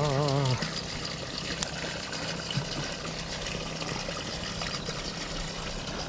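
Water trickling steadily. Right at the start there is a short wavering hum from a voice.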